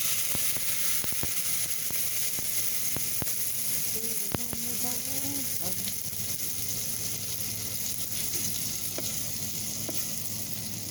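Marinated ribeye steak searing in hot oil in an Instant Pot's inner pot: a steady sizzle with a few small pops and crackles.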